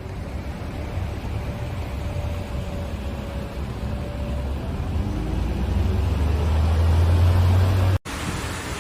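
Low vehicle rumble over a steady rushing noise, growing louder and then cutting off abruptly about eight seconds in.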